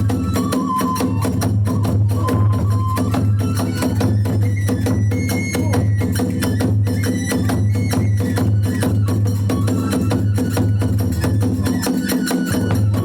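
Kagura hayashi ensemble: drum and small hand cymbals beating a fast, steady rhythm under a bamboo flute melody that steps up and down.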